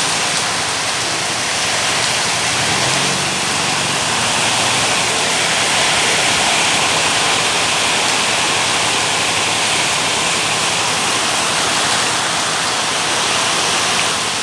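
Heavy rain falling in a loud, steady hiss with no let-up.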